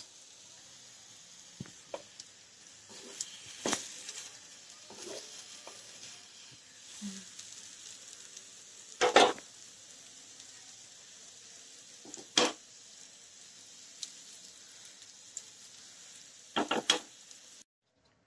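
Soya seekh kababs on wooden skewers sizzling faintly in shallow oil in a nonstick pan on a low flame, with a few sharp clicks and knocks as the skewers are turned against the pan, about four times. The sound cuts off suddenly just before the end.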